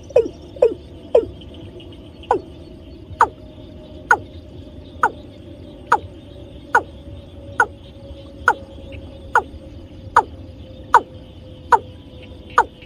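Watercock call used as a trapping lure: a long series of short, hollow calls, each dropping quickly in pitch. They come quickly at first, then settle to an even pace of about one a second.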